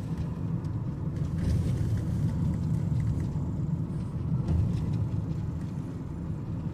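A car driving along: a steady low rumble of engine and tyres on the road.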